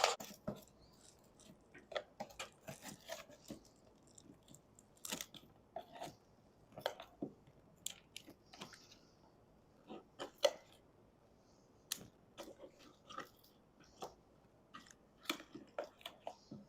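Scattered sharp clicks and short scrapes from hand-tool work on a camper roof vent, coming at irregular intervals.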